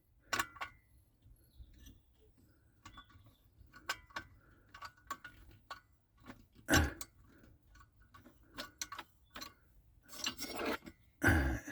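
Light metal clicking and clinking from a long-reach socket and wrench undoing the glow plug of a diesel air heater, with a few louder knocks about seven seconds in and near the end.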